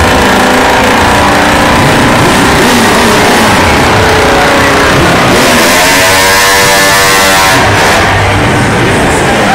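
Motorcycle engines running loudly, with an engine revving up and back down about halfway through.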